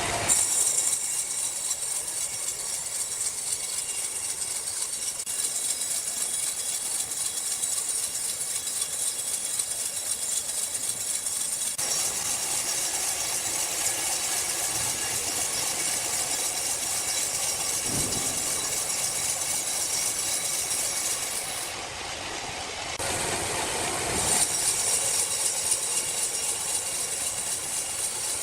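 Sawmill machinery running: a steady mechanical din with a strong high hiss. It changes abruptly about 12 seconds in and dips briefly a little past 20 seconds.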